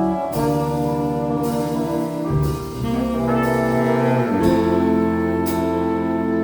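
Small jazz ensemble of saxophones, trumpet, trombone and rhythm section playing, the horns holding long sustained chords that move to a new chord about every two seconds.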